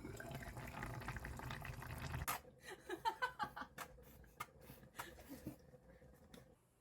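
Water running from a kitchen tap, shut off suddenly about two seconds in, followed by drips and light clicks.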